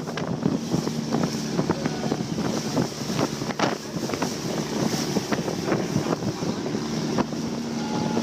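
Long-tail boat engine running steadily under way, with wind buffeting the microphone.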